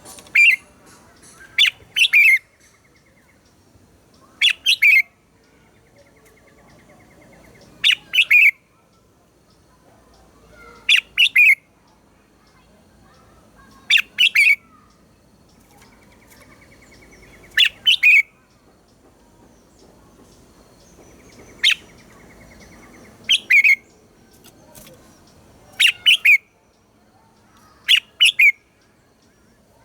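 Red-whiskered bulbul singing short, loud phrases of a few quick whistled notes. The phrases often come in close pairs and repeat every few seconds.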